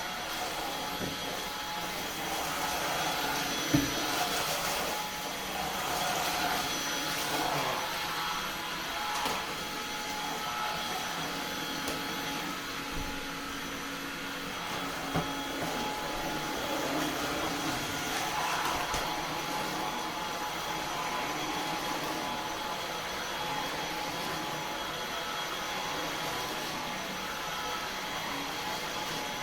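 Eufy HomeVac S11 cordless stick vacuum running steadily while vacuuming, with a few short knocks, the loudest about four seconds in.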